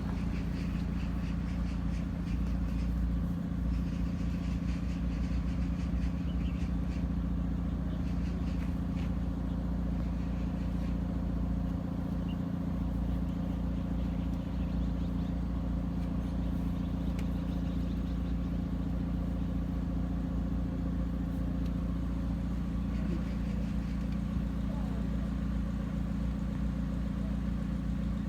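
A motor running steadily: a continuous low hum and rumble that holds an even pitch.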